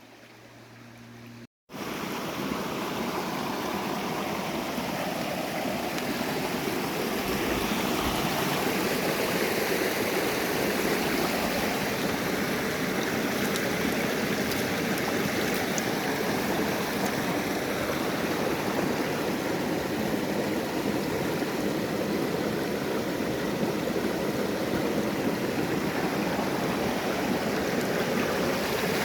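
Flowing river water, a steady rush that comes in suddenly about two seconds in after a moment of quiet.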